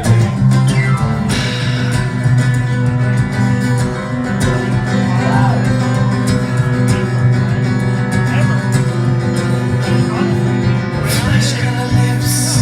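Acoustic guitar playing a song's instrumental intro live, chords strummed in a steady rhythm.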